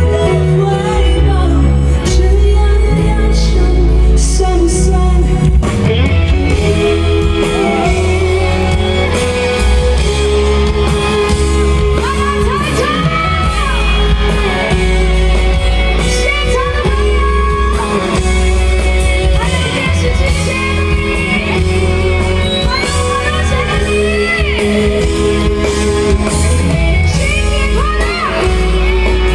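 Loud live pop band music with a heavy, steady bass line, and singing that comes in more strongly about six seconds in.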